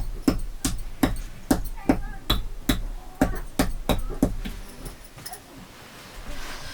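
A run of sharp, evenly spaced knocks, about two and a half a second, stopping about four seconds in.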